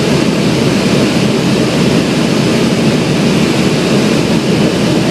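Steady, loud drone of a Cessna 172's piston engine and propeller in flight.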